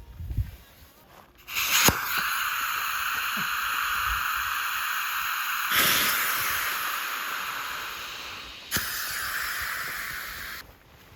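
A loud steady hiss of rushing air or gas that starts suddenly, runs for about nine seconds with a sharp click shortly after it starts and another near the end, then cuts off abruptly.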